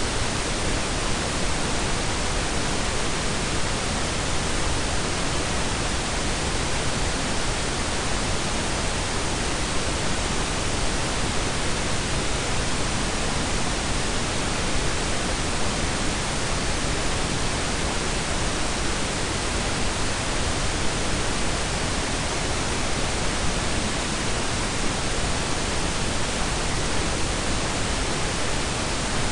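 Synthetic pink and brown noise blended together: a steady, even hiss with a deep rumbling base, unchanging throughout.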